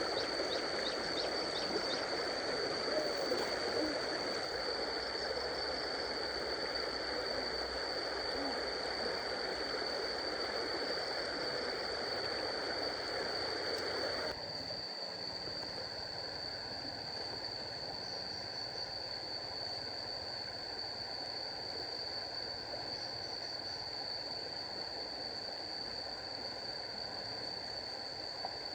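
Running stream water, which drops away abruptly about halfway through, leaving quieter outdoor ambience. A steady high-pitched tone continues throughout.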